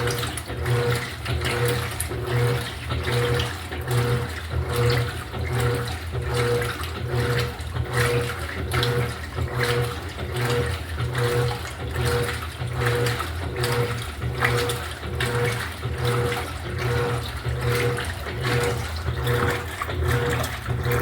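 Electrolux LED14 top-loading washing machine running a wash cycle: the motor drives the load back and forth with an even pulsing hum about one and a half times a second, over water sloshing in the tub.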